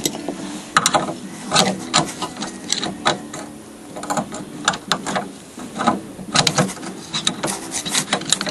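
Hand ratchet wrench clicking in short strokes with sharp metal clinks, as bolts are run in on a VW bus engine crossbar.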